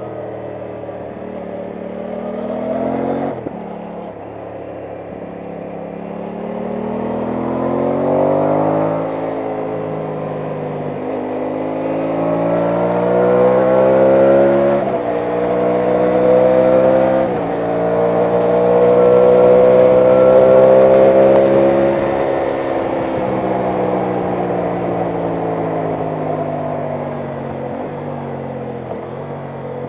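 Aprilia Tuono 660 Factory's parallel-twin engine pulling through the gears: its pitch climbs and falls off sharply at each upshift, a few times in the first half. It then holds a long rising pull before easing off to a steady cruise in the last third.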